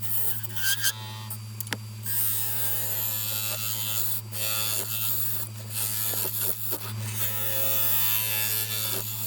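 Wood lathe motor running with a steady hum while a turning tool cuts into the spinning wet poplar, the scraping noise of the cut coming and going in stretches as the tool is pushed in and eased off, with a few sharp clicks.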